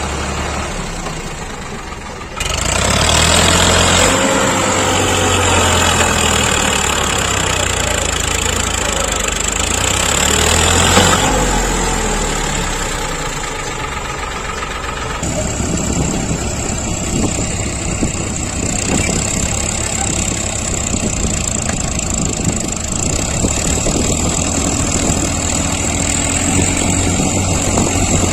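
Diesel tractor engine running under heavy load. It gets louder about two seconds in and settles into a steadier, lower note about halfway through.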